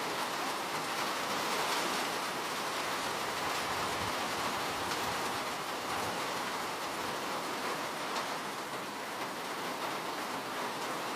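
Steady rain falling, a continuous even hiss of many drops with faint individual patters.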